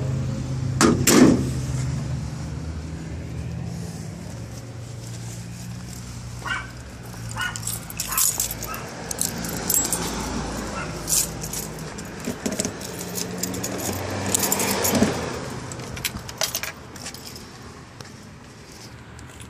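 The truck's 6.5L turbo diesel runs at a steady idle, fading away over the first few seconds, under scattered clicking and jangling. A loud sharp sound comes about a second in, and another around fifteen seconds in.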